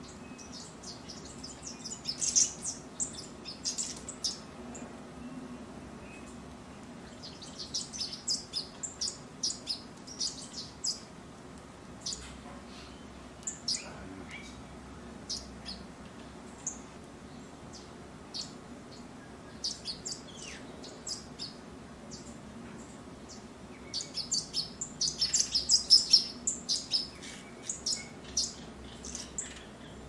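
Small birds chirping: spells of quick, short, high-pitched chirps that come and go, the loudest and busiest spell near the end.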